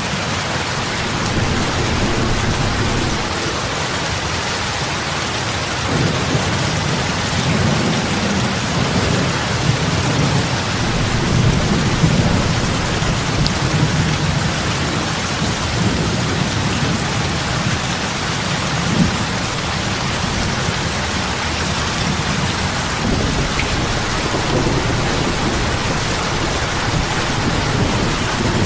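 Heavy rain falling steadily on lake water, a dense even hiss of drops hitting the surface. Underneath, a low rumble rises and falls from about six seconds in.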